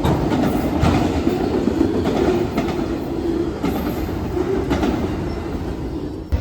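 A train rolling past with a steady rumble, its wheels clicking over rail joints about once a second.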